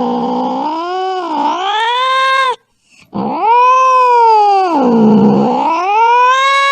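Cat yowling angrily: long drawn-out wails that sag in pitch and rise again, the first breaking off about two and a half seconds in, then after a brief pause a second long wail that dips low and climbs back up.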